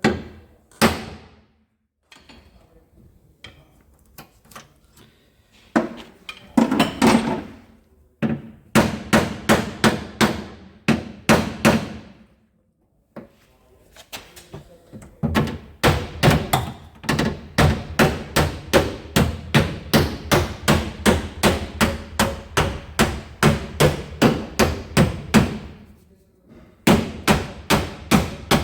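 Hammer blows on the crash-damaged sheet-metal edge of a car's tail light opening, beating it back into shape so the tail light fits: a few scattered strikes, then long runs of quick, even blows, about three a second, with short breaks.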